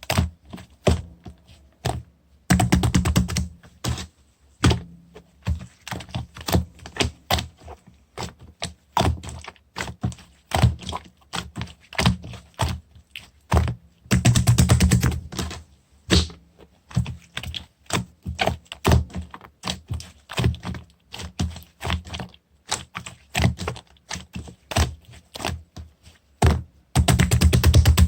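Hands playing with a clay-mixed clear slime: a fast, irregular run of sticky clicks and small air-bubble pops, with three longer stretches of dense crackling, one near the start, one about halfway and one at the end.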